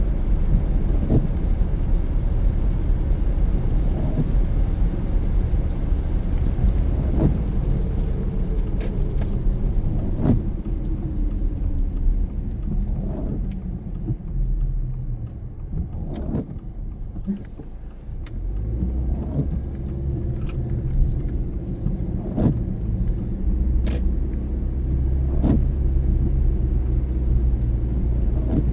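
Car driving on a wet road in the rain, heard from inside: a steady low rumble of tyres and engine. A short sound recurs about every three seconds.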